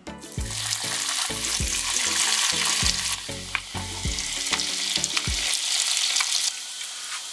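Breaded chicken cordon bleu rolls shallow-frying in hot oil: a loud sizzle that starts suddenly as the first roll goes into the pan and carries on as the second is added, easing slightly near the end.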